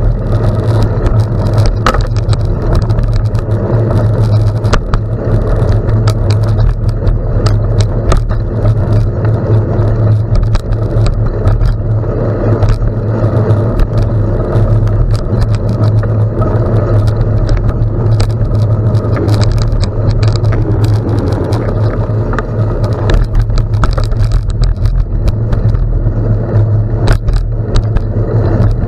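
Gravel bike rolling over a gravel road: steady low rumble, with tyres crunching and frequent sharp clicks and rattles from the bike.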